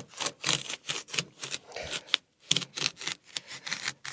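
A piece of building material being cut by hand: a quick, irregular run of sharp snipping clicks, about four a second, with a brief pause about two seconds in.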